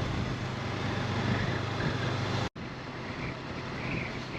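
Honda CB500X motorcycle on the move: steady engine hum and wind rush. It cuts off abruptly just past halfway, leaving quieter open-air sound with insects starting to chirp near the end.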